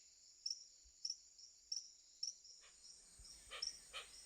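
Rainforest ambience: an insect chirping about twice a second over a steady high-pitched insect drone, with two short lower calls near the end.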